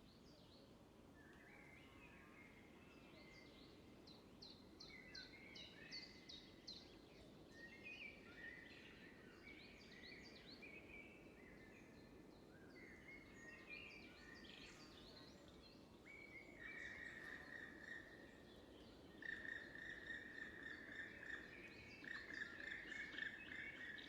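Faint birdsong: varied chirps and trills, repeated again and again, becoming louder with a steady trilling phrase in the last third, over a low background hum.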